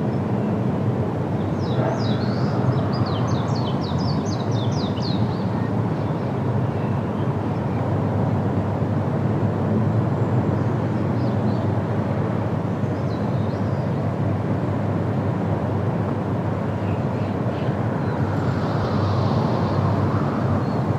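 Steady wind rushing through trees, with small birds chirping over it: a quick run of short, high chirps about two to five seconds in, then a few fainter scattered calls.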